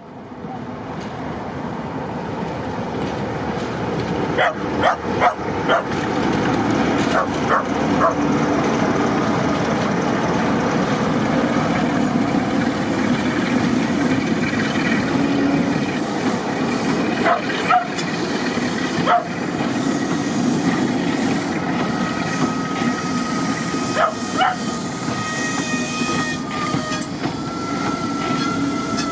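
Diesel train running past with a steady rumble and a few sharp clicks, likely wheels over rail joints, and a high wheel squeal coming in during the last third.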